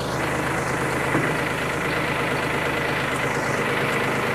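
Tractor engine idling steadily, with a faint steady whine above it.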